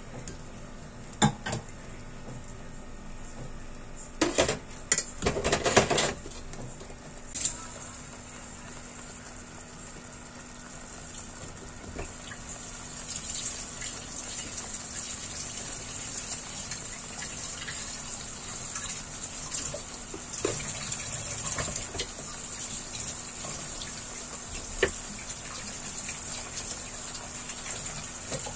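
Blended rendang spice paste sizzling and bubbling in a stainless steel wok as it is sautéed until fragrant, with a wooden spatula knocking and scraping against the pan in a cluster of strokes in the first several seconds. The sizzle grows louder about halfway through.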